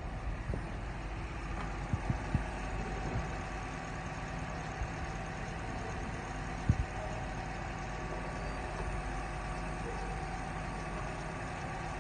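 Engine idling steadily while misfiring on one cylinder, with a fuel injector that has failed. A few sharp knocks, the loudest about two-thirds of the way through.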